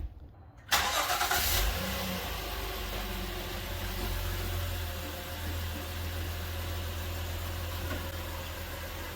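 2016 Honda Odyssey's V6 engine cold-started after sitting overnight: it catches less than a second in, runs up briefly, then settles into a steady idle.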